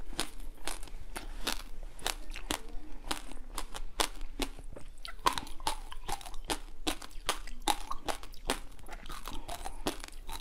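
Close-miked chewing and biting of yellow jelly balls studded with dark seeds: a dense, irregular run of crisp crunches and wet clicks, with a fresh bite near the end.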